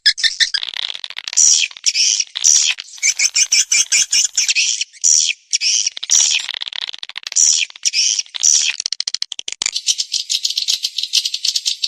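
Swiftlet call recording used to lure swiftlets into a nesting house: dense, high twittering chirps over rapid clicking, coming in quick repeated bursts, then running together unbroken about ten seconds in.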